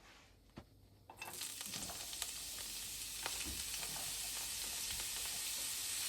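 Food goes into a hot oiled pan about a second in and starts sizzling, a steady frying hiss with small pops and crackles. A few light knocks come before it.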